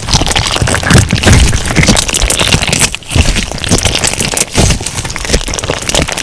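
Crunch slime being squeezed and pressed, giving a dense run of crackling pops and crunches, with a brief lull about three seconds in.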